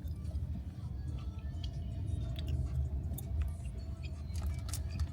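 Steady low road rumble of a car in motion, heard from inside the cabin, with a few faint clicks.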